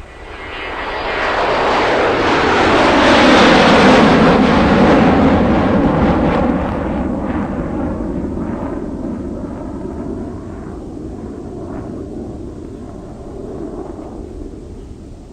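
Jet airliner at takeoff power passing by: the engine roar swells over the first few seconds, peaks about four seconds in with its pitch sweeping down as it passes, then slowly fades as the aircraft climbs away.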